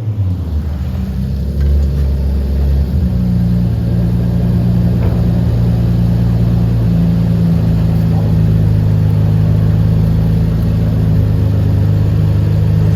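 Nissan 350Z's 3.5-litre V6 running through a Fast Intentions aftermarket exhaust, held at steady raised revs. About three seconds in the pitch steps up, and the engine then holds that higher speed evenly.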